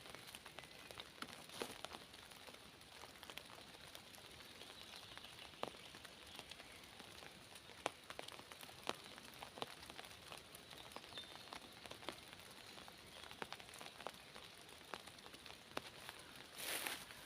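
Light rain in a forest: a soft, faint hiss with scattered drops ticking on leaves. A louder stretch of noise starts near the end.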